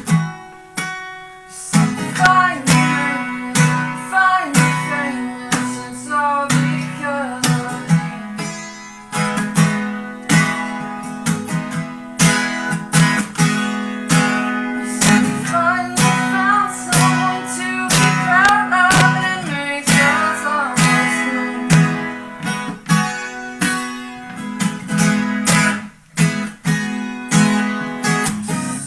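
Acoustic guitar strummed in a steady rhythm, with a voice singing a melody over it. The strumming breaks off briefly near the end.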